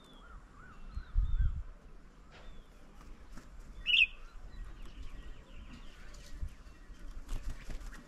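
Birds calling at a garden bird table: a quick run of short rising-and-falling notes in the first two seconds, then a loud, sharp single call about four seconds in, with small scattered chirps. A brief low rumble comes just after the first second.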